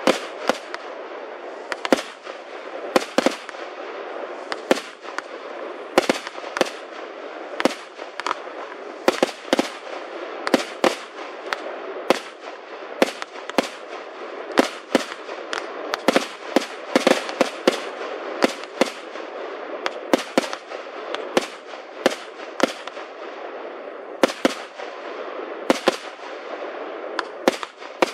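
Fireworks display: aerial shells bursting one after another, sharp bangs coming irregularly about once or twice a second over a steady hiss.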